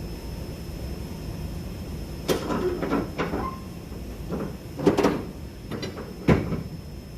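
About five sharp knocks and clanks, each ringing briefly, over a low steady rumble; the loudest come a little before and after the middle and again near the end.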